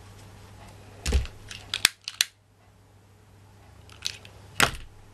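Several sharp clicks and knocks of small hard objects being handled, in two clusters about three seconds apart, over a low steady hum.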